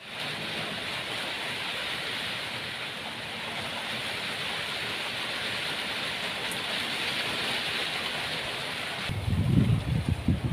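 Steady hiss of rain falling. About nine seconds in it cuts off suddenly and gives way to uneven low rumbling with irregular loud peaks.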